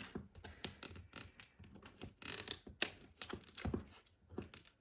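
Plastic toy packaging being handled and pulled at, giving an irregular run of small crinkles and clicks as she tries to tear it open.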